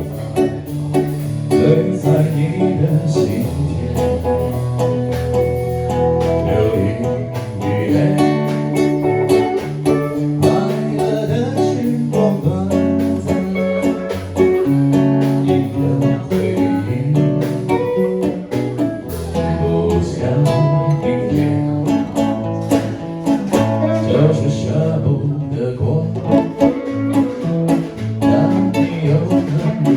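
Acoustic and electric guitars playing an improvised jam, with sustained low notes, strummed chords and a drum keeping time.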